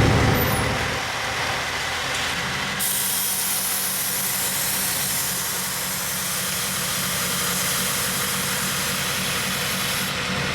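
Pickup truck engine running at a steady speed while driving, under a steady hiss of road and wind noise. It is loudest right at the start and settles within about a second.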